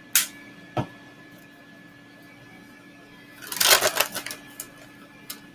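Kitchen handling noises: a sharp clack at the start, a light knock, then about a second of rattling and clattering midway and a few small clicks, over the steady hum of the Nuwave Brio air fryer preheating.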